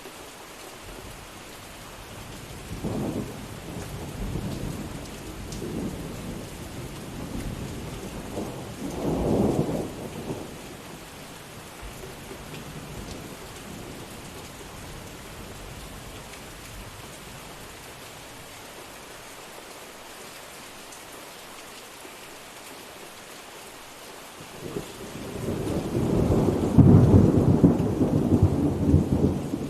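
Steady rain with thunder: a rolling rumble through the first ten seconds, then a louder, longer thunderclap building from about 25 seconds in.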